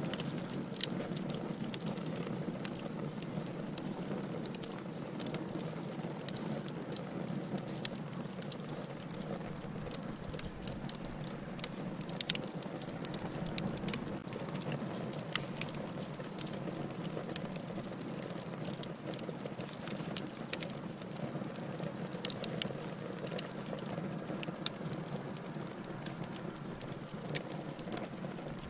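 Wood fire crackling in a fireplace: a steady low rush with frequent irregular sharp pops and snaps.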